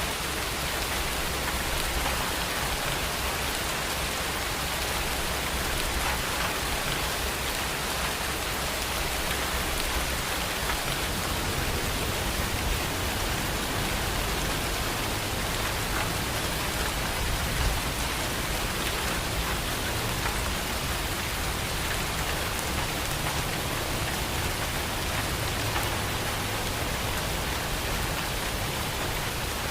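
Steady, even rainfall pattering on surfaces.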